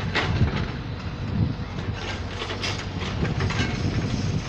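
Train running along the track: a steady low rumble with irregular clattering knocks from the wheels passing over rail joints and points.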